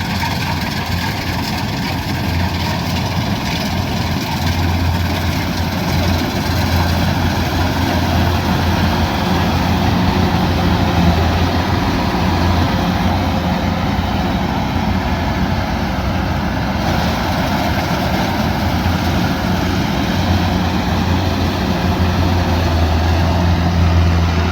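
Kubota DC108X combine harvester running steadily, its diesel engine giving a low, even hum over machinery noise that swells a little at times.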